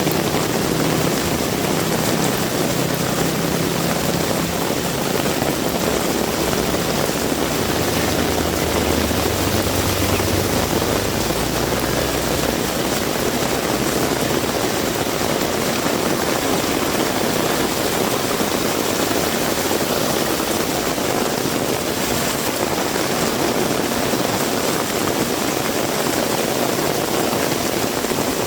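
Heavy rain falling steadily in a dense, even hiss. A low engine hum from a vehicle sits under the rain for roughly the first dozen seconds, then fades.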